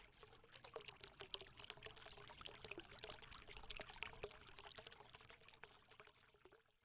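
Faint pouring sound full of small crackles and clicks, fading out near the end.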